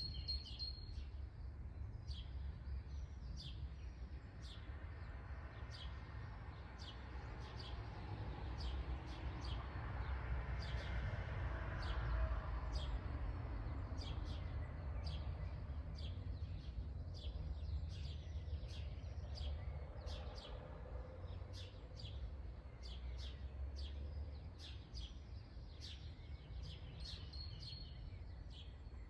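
Songbirds chirping in many short, quick high notes over a steady low rumble. A broad rushing noise swells up toward the middle and fades away again.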